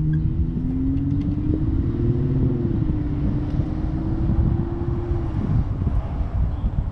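Dirt bike engine running with a low, uneven rumble; its pitch rises slightly, holds, then drops away about five seconds in.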